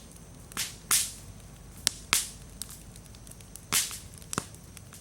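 Wood bonfire crackling, with sharp pops about every second, the loudest about a second in and near four seconds, and fainter ticks between. The slightly damp firewood is bursting and throwing sparks.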